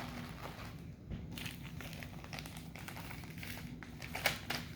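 Food packaging crinkling and rustling as it is handled, with scattered light clicks and taps, while heated mini corn dogs are packed up into meals.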